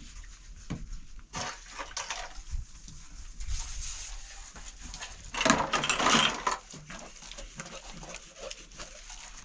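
An animal calling, loudest about five and a half seconds in, over a steady rustling noise with scattered clicks.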